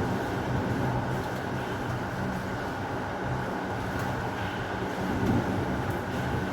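Heavy rain falling steadily over a low, continuous rumble, with a slight swell about five seconds in.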